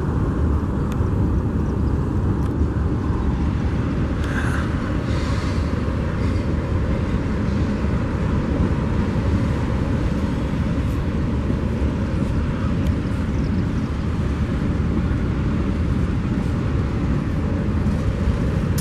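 Norfolk Southern freight cars rolling past at speed: a steady, loud noise of steel wheels on the rails, with a few faint clicks.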